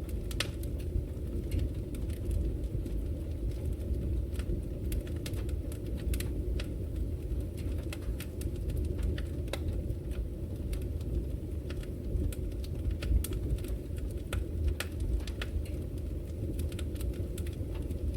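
Fire crackling in a fireplace: irregular sharp snaps and pops over a steady low rumble of burning.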